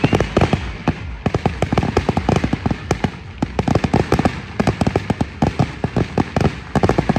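Fireworks crackling and popping in rapid volleys, many sharp cracks a second, with a slightly sparser patch around the middle.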